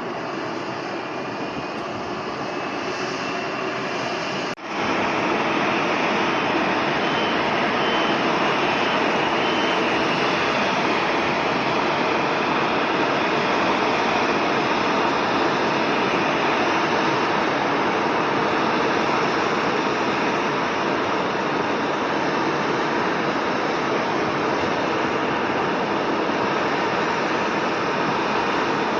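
Jet airliner engines running, a loud, steady roar with a faint high whine. It breaks off for an instant about four and a half seconds in and comes back louder.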